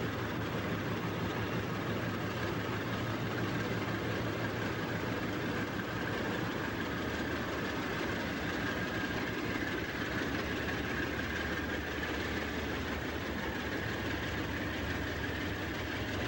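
Freight train rolling by with a steady rumble and rattle of wagons on the rails, and a thin high whine running through it.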